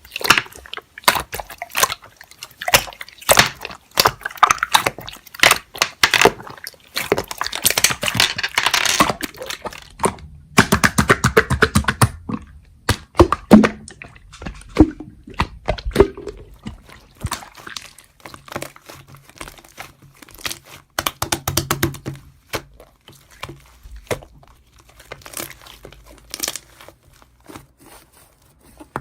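Slime being squeezed and stretched by hand, making irregular sticky clicks and crackles.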